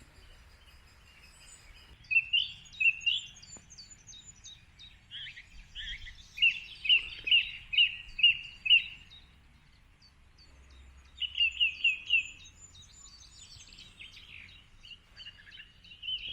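Wild songbirds singing: three bright phrases of quickly repeated chirping notes, the longest about halfway through, with fainter high calls behind them.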